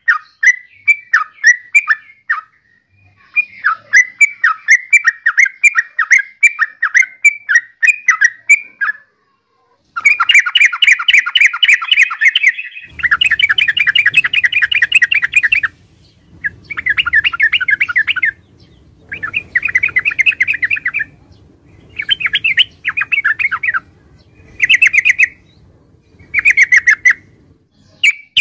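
Yellow-vented bulbul (Pycnonotus goiavier) singing: quick runs of chattering notes, each phrase lasting one to three seconds, repeated again and again with short pauses between them.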